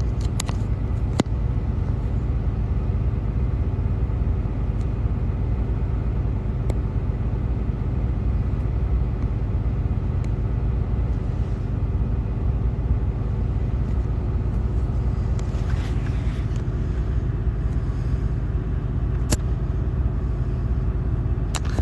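Truck engine idling with a steady low rumble, heard from inside the cab, with a few small clicks.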